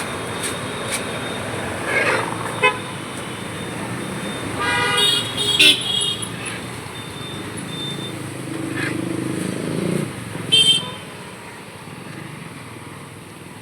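Busy street traffic with vehicle horns honking: a longer horn blast about five seconds in and a short one near eleven seconds, over a steady traffic hum.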